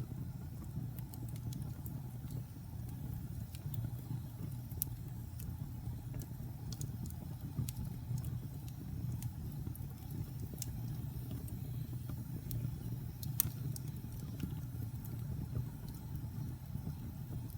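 Wood fire burning in a fireplace: a steady low rumble of flames with irregular sharp crackles and pops, one louder pop about thirteen seconds in.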